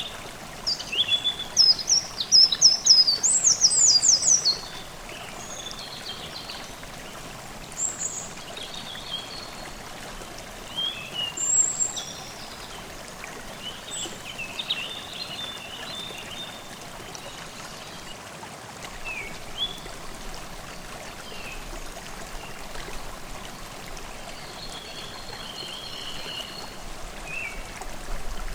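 Forest stream running steadily, with songbirds singing over it: a busy run of rapid high chirps in the first few seconds, then scattered shorter calls and trills.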